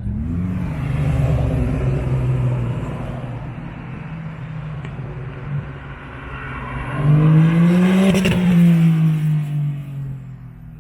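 Car engine accelerating, then a louder car accelerating past, its engine note climbing and then falling away from about seven to nine seconds in.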